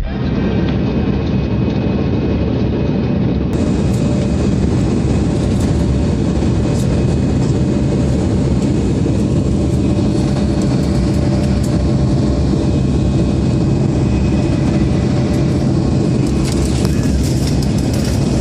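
Steady drone of an aircraft in flight: engine hum under a continuous rush of air noise, with a faint steady whine.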